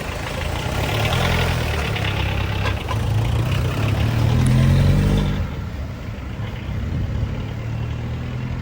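Car engine running, rising in pitch and loudness as it accelerates until about five seconds in, then easing back to a lower steady hum.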